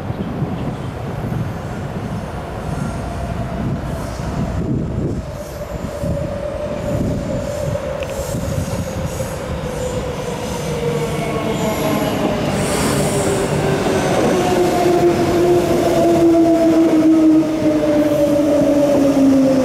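Queensland Rail electric train running on the track, its traction motors whining in several tones that fall slowly in pitch as it slows, growing louder over the second half.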